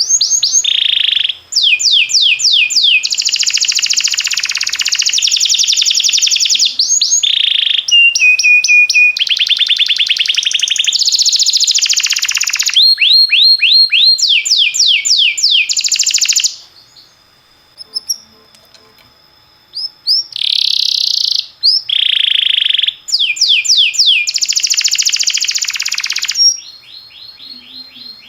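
Canary singing: phrases of fast trills of repeated notes, long rolling tones and falling sweeps. The song pauses for a few seconds past the middle and briefly near the end.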